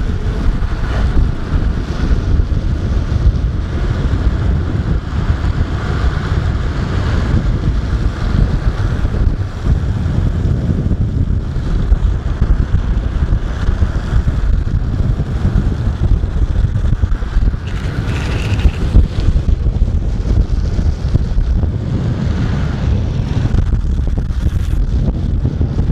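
Heavy wind buffeting the microphone while riding fast along a road, a dense steady rush with no let-up, over the noise of wheels on the road.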